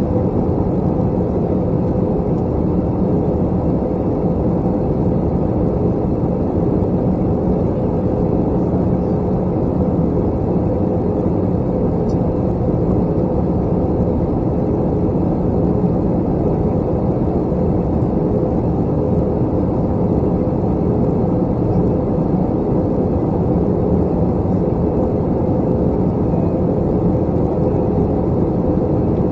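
Airbus A321 cabin drone heard from a window seat: jet engines and airflow make a steady, unchanging roar with a low hum running through it.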